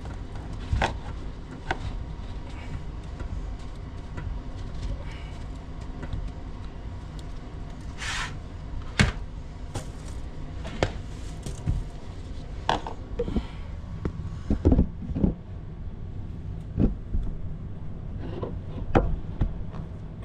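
Snow being scooped and packed into bowls by hand: scattered knocks and clicks of the bowls and a brief scraping hiss about eight seconds in, over a steady low hum.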